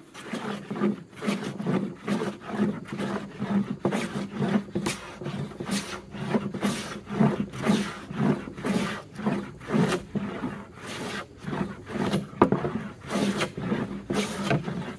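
Hand bench plane taking repeated short shaving strokes across a wooden board, about two strokes a second, the sharp iron cutting away tear-out.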